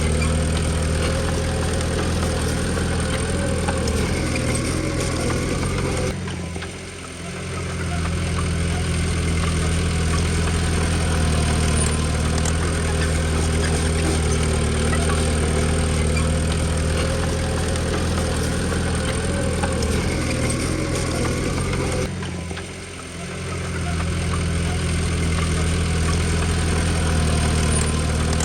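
Komatsu D20P bulldozer's diesel engine running steadily, briefly dropping in loudness twice, about a quarter of the way in and again near the end.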